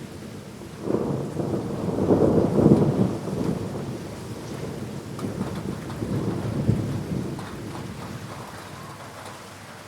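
A roll of thunder over steady heavy rain. The thunder breaks in suddenly about a second in, rumbles loudest a second or two later, swells again, and fades away near the end, leaving the rain hiss.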